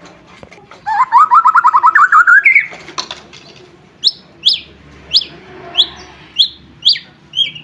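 White-rumped shama (murai batu) singing: a fast trill rising in pitch, then a run of about seven sharp, falling whistled notes about half a second apart.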